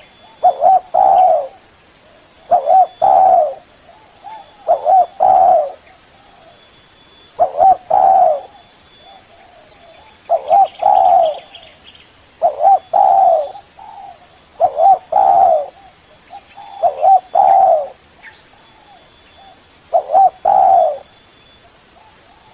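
Spotted dove (tekukur) cooing: a phrase of two or three coos repeated about every two seconds.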